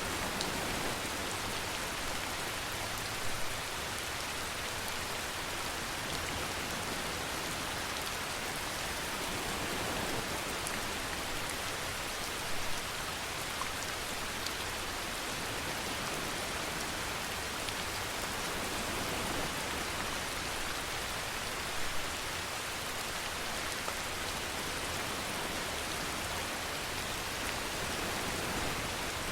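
Steady rainfall, an even hiss of drops, with three brief louder spatters spaced about nine seconds apart.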